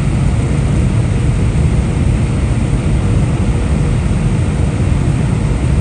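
Steady low rumble of an Airbus A319 in descent, heard inside the cabin: engine and airflow noise with a faint steady hum above it.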